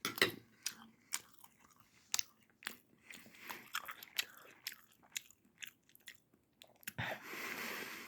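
Close-up mouth sounds of a child chewing a bite of gravy-covered chicken: irregular small wet clicks and smacks. A louder rushing noise lasts about a second near the end.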